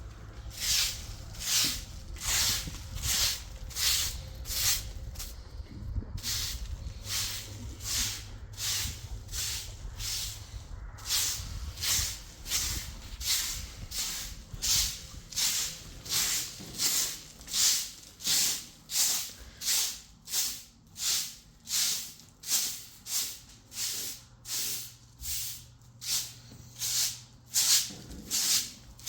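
Repeated scraping strokes in a steady rhythm, about one and a half a second, keeping up throughout with a pause around six seconds in.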